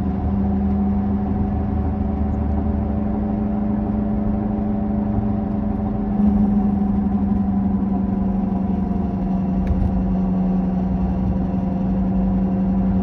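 Worn front wheel bearing of a 2007 Toyota Camry, a steady growling hum with road noise, heard from inside the moving car. It is the sign of a badly worn bearing needing immediate repair.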